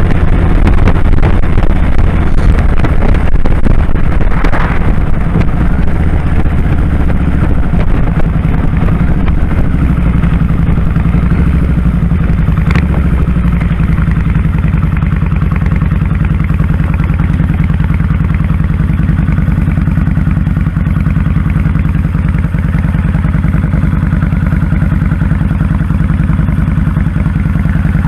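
2001 Kawasaki Drifter 1500's V-twin engine running while riding, loud and throbbing. About halfway through it gets a little quieter and settles into a steadier, even beat.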